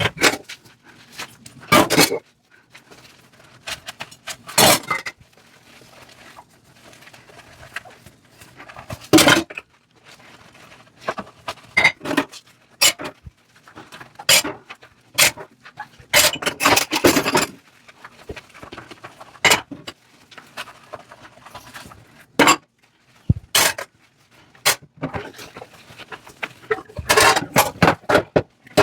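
Dishes and utensils knocking and clinking against each other in a sink during hand dishwashing, as irregular sharp clanks. A couple of longer rough stretches of rubbing or scrubbing come in the middle and near the end.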